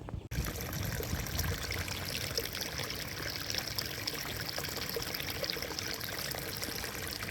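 Steady rush of running water, starting abruptly about a third of a second in.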